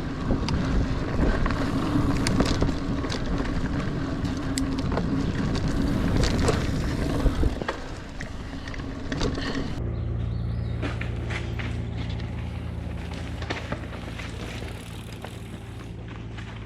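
Niner Air 9 RDO 29er mountain bike ridden on dirt singletrack: tyres rolling and the bike rattling, with many sharp clicks and knocks. About ten seconds in the sound turns smoother and steadier, with fewer clicks.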